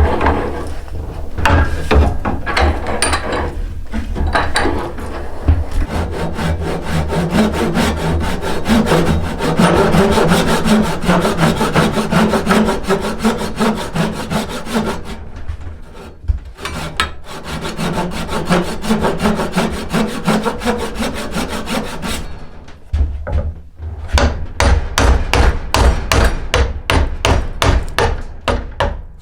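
A hand tool working yew bow wood in rapid back-and-forth strokes, several a second, with short pauses about halfway and about three-quarters of the way through.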